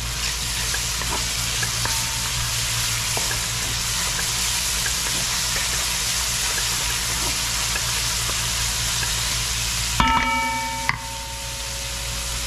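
Onion and garlic sizzling in hot oil in a pot while being stirred, a steady frying hiss. About ten seconds in, a loud metal clang rings briefly with a bell-like tone, followed by a click, and the sizzle is quieter after it.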